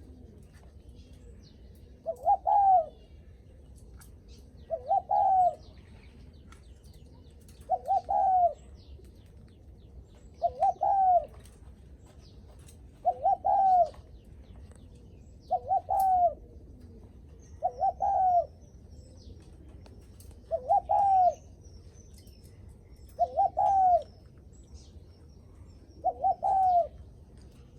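Spotted dove cooing its short greeting coo ('gù khách'), a brief phrase of a quick note or two and a longer, falling coo. The phrase comes about ten times, at a steady pace of roughly one every two and a half seconds.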